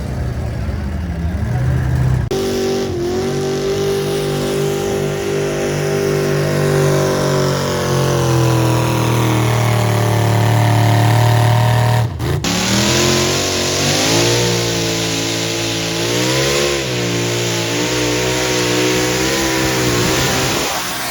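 Truck engine running hard at high revs under load, its pitch slowly sagging and climbing again, broken by two abrupt cuts about two seconds in and twelve seconds in.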